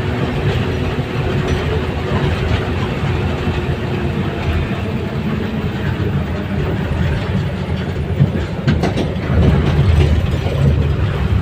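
Steady, loud rumble of a moving vehicle, with a few sharp clicks about eight to nine seconds in.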